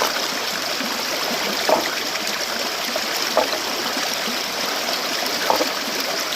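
Fast-flowing stream water rushing steadily, with three brief splashes or gurgles spaced through it.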